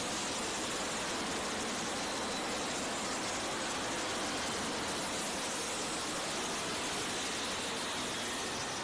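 Steady, even hiss like white noise, unchanging throughout.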